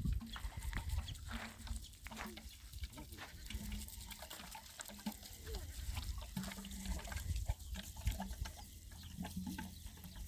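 Farm animals calling in short, low, repeated sounds, over a low rumble and scattered small knocks.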